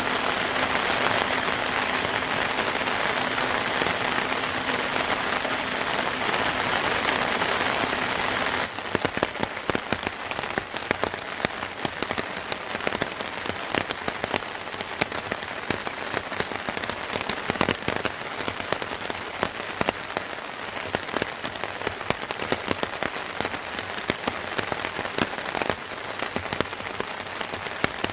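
Rain falling on a surface, with many separate drops ticking. For roughly the first third a louder, steadier hiss with a faint low hum runs under it, and it cuts off abruptly.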